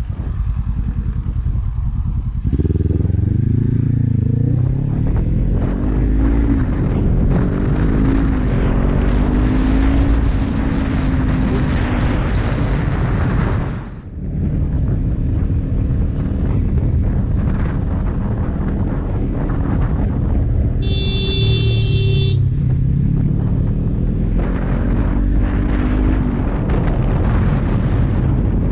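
Kawasaki Z400's parallel-twin engine through an Akrapovic exhaust, pulling through the gears on the road: the revs climb in repeated rising sweeps, drop out briefly about 14 seconds in, then climb again near the end. A short, high tone sounds for about a second around 21 seconds in.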